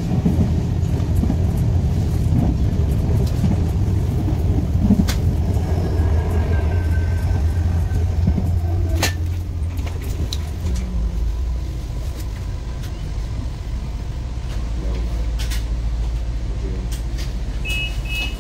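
Commuter train standing at a station platform, its steady low rumble shifting lower about ten seconds in, with a few sharp clicks. Near the end, rapid two-tone door warning beeps begin.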